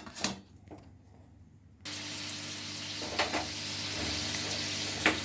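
A few light clicks, then about two seconds in a steady sizzling starts as chicken kofta cooks in a covered pan over a low gas flame, with an occasional sharp pop.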